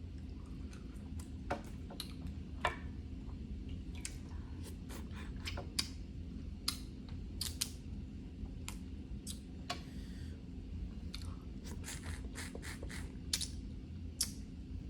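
Snow crab leg shells cracking and snapping in short, sharp clicks at irregular intervals, mixed with chewing, over a steady low hum.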